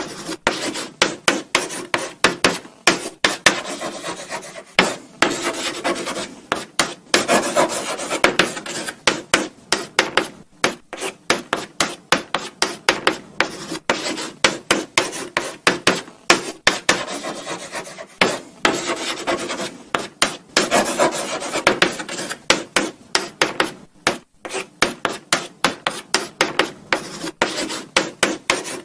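Chalk writing on a blackboard: quick scratching and tapping strokes in irregular runs, with short pauses between words.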